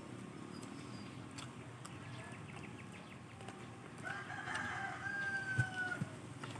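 A rooster crowing once, a single drawn-out call of about two seconds that falls away at the end.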